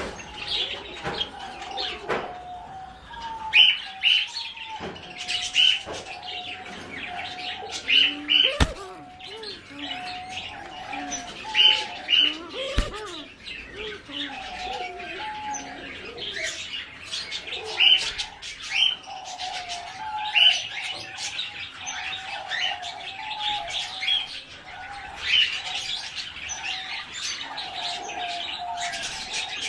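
Kept birds calling together: loud, short, high chirps every second or two over a continuous lower warbling chatter, with a few sharp clicks.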